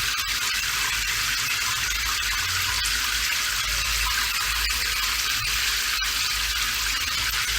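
Steady rain: a continuous, even hiss with a low rumble beneath it.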